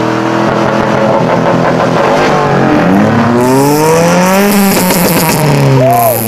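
A parked car's engine being revved: held steady at first, then the revs climb for about a second and a half and fall back again near the end.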